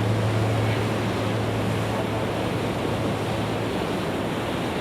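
Glacier-meltwater waterfalls of Trümmelbach Falls roaring inside the mountain: a steady rushing of water. A low hum fades out over the first half.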